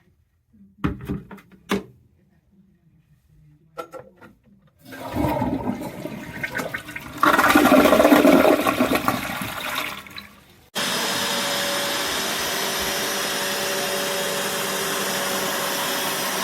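A few handling clicks, then several seconds of gushing, gurgling water. About two-thirds of the way in, the BISSELL Revolution HydroSteam carpet cleaner's suction motor switches on abruptly and runs steadily.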